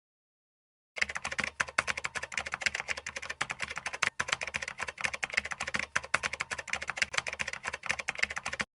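Rapid computer-keyboard typing, a dense run of clicks that starts about a second in and cuts off suddenly near the end.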